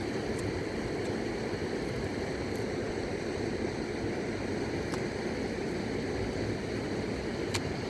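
Fast-flowing mountain river rushing steadily, with a few faint ticks over it.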